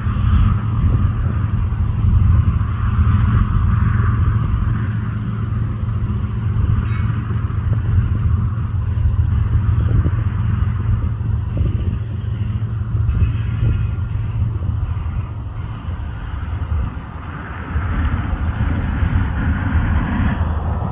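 Boeing 737-700's CFM56 jet engines at takeoff power: a loud, steady low rumble with a rushing hiss over it, easing slightly for a moment near the end before building again.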